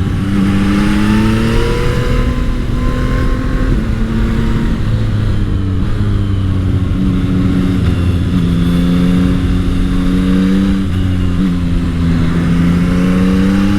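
Yamaha MT-09 SP's CP3 three-cylinder engine under way at low revs while the new bike is being run in. Its pitch rises over the first few seconds, drops at a gear change about four seconds in, then runs fairly steady with small dips.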